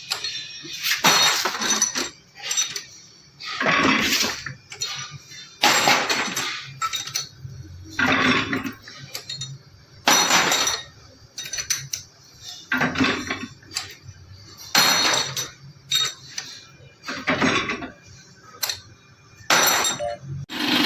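Hard metal parts clattering and clinking in repeated short bursts, roughly one every one to two seconds, with quieter gaps between them.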